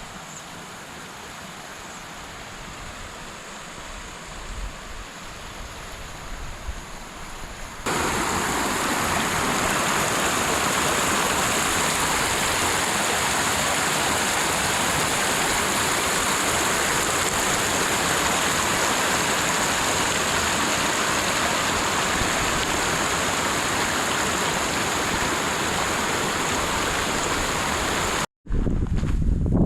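Mountain stream cascading over rocks, a steady rush of water. It is moderate at first, then suddenly much louder about eight seconds in, as though heard right beside the falling water, and cuts out briefly near the end.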